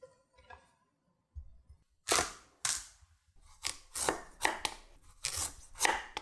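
A series of about eight sharp knocks at uneven intervals, beginning about two seconds in.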